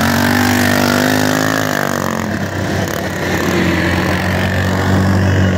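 Small mini bike engines running hard off a race start, the pitch easing down about two seconds in before settling into a steady note.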